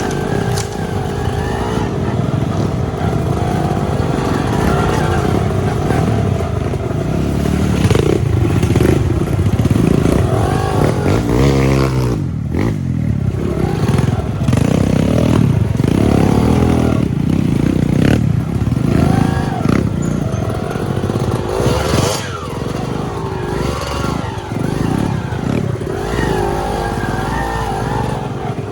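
Trail motorcycle engine revving up and down again and again as it is ridden over slippery rocks, with occasional knocks; the revs fall away sharply about twelve seconds in and then climb again.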